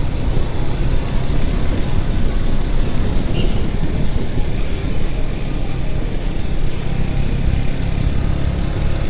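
Motorcycle on the move: steady rushing wind and road noise over the rider's microphone, with the engine running beneath.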